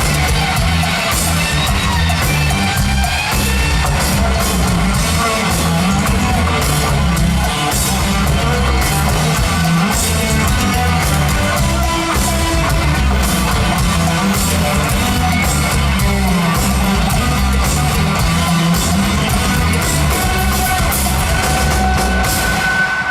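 Rock band playing live through a loud PA: a busy, stepping bass line, drum kit and electric guitar. The music breaks off abruptly at the very end.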